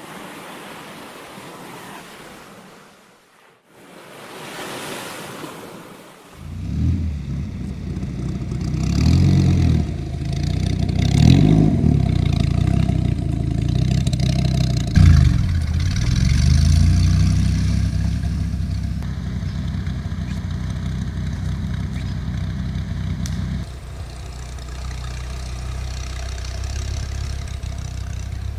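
A steady hiss, then about six seconds in the 8.3-litre V10 of a 2006 Dodge Viper SRT10 comes in loud. It revs up and down a few times, then runs on more steadily, dropping back a step near the end.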